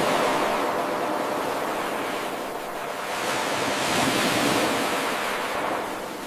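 Ocean waves washing on a shore: one wave surges in at the start and fades, and a second swells up a few seconds in and ebbs away near the end.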